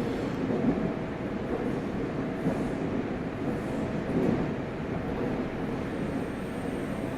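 Running noise of a Meitetsu 100 series electric train with Mitsubishi GTO traction control: a steady rumble of wheels on rail, with faint steady tones from the traction equipment.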